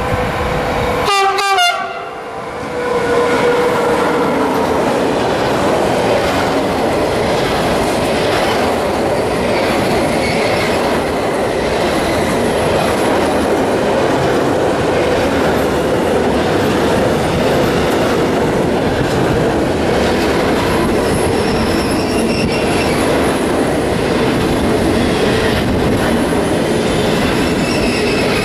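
Electric locomotive horn sounding briefly about a second in, then a long freight train of pocket wagons carrying semi-trailers passing close by, its wheels clattering steadily on the rails.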